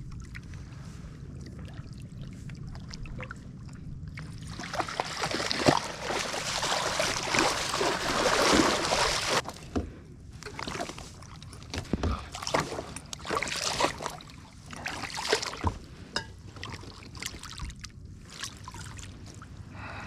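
Water splashing and sloshing at a kayak. It is loudest for about five seconds starting some four seconds in, then gives way to scattered short splashes and knocks against the hull.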